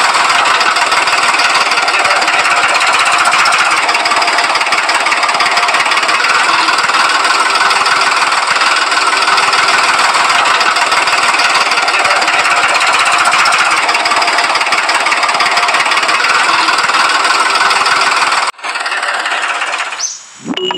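Miniature diesel-engine water pump running with a fast, steady knocking. The sound changes abruptly near the end.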